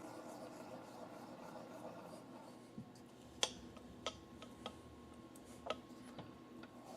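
A few light, sharp clicks and taps, about four spread through the middle, over a faint steady hum, typical of tools and metal parts being handled at a lathe.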